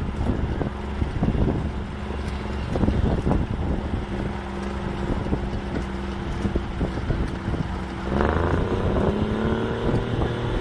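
A steam traction engine and a Scammell lorry pulling against each other through a winch: a steady engine drone under load with irregular knocks. About eight seconds in, an engine revs up, its pitch rising and holding.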